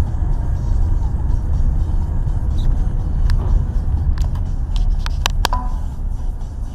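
Car driving, its engine and road noise a steady low rumble as picked up by a dashcam, with a few short sharp clicks about three and five seconds in.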